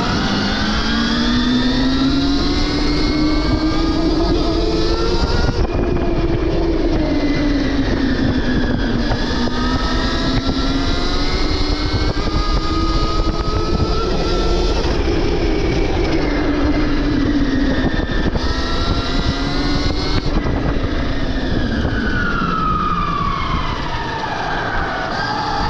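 Stark Varg EX electric dirt bike's motor and drivetrain whining, the pitch rising and falling again and again as the bike speeds up and slows, over a constant rushing noise.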